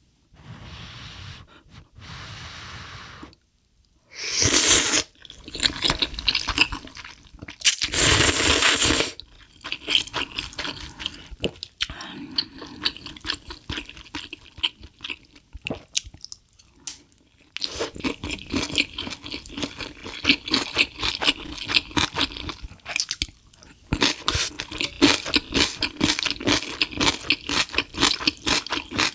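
Close-miked eating: chewing and crunching of food, with two loud rushing bursts of about a second each early on and dense, clicky crunching through the last third.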